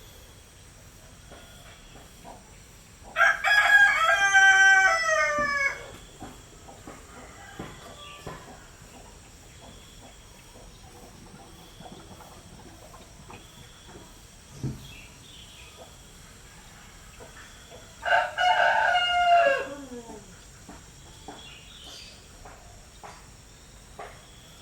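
Rooster crowing twice, about fifteen seconds apart: each crow is a loud call of about two to three seconds that falls in pitch at the end. Between the crows there is a faint background with small scattered chirps and clucks.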